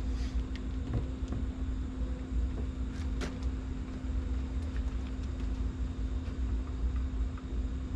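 Plastic push-pin trim clips being pried out of a Ford Focus ST's hatch trim panel: a few scattered clicks and clacks, the clearest about three seconds in, over a steady low rumble and hum.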